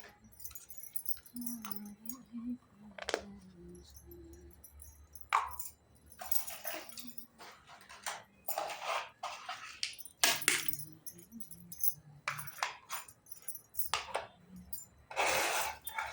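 Small plastic toy pieces and packaging being handled: irregular bursts of crinkling and rustling, with light clicks and clinks between them.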